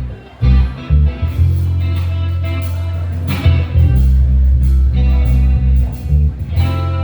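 Live band playing: electric guitar over sustained bass guitar notes with drums.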